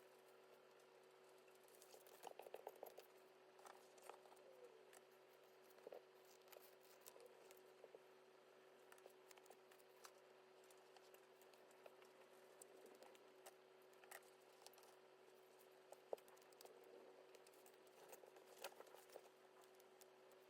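Faint handling sounds of stickers, sticker sheets and a binder: scattered small taps, clicks and crinkles, over a faint steady hum.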